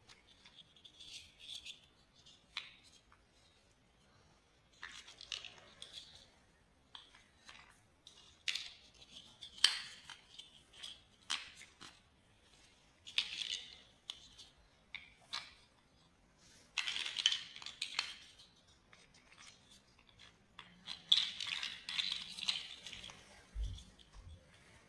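Small plastic building-block pieces being handled and fitted together: irregular sharp clicks and short scratchy rustles, coming in clusters every few seconds.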